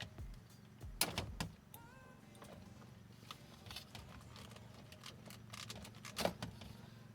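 Sharp plastic clicks and rattles from a power window switch assembly being handled while its relays are pried off: a cluster of clicks about a second in and another near the end, over a steady low hum.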